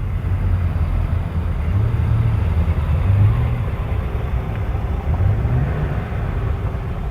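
Car engines rumbling as cars drive past, with the engine note rising briefly about two seconds in and again about five seconds in.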